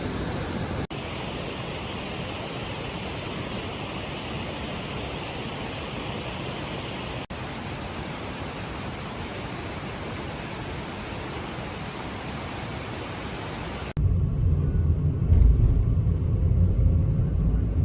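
Steady, even rushing noise across several short shots, switching about fourteen seconds in to a louder low rumble.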